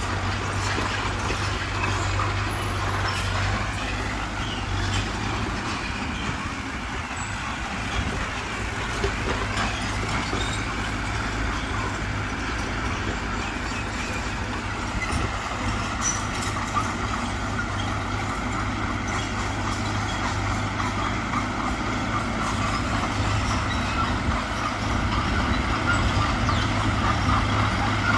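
Diesel engine of heavy earthmoving machinery running steadily under work, with a constant low drone that grows a little louder near the end.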